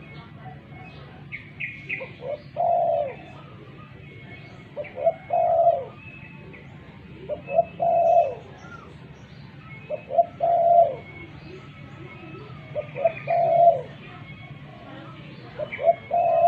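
Spotted dove (tekukur) cooing: six phrases about every two and a half seconds, each a couple of short notes and then a longer falling coo. Faint chirps from other small birds sound in the background.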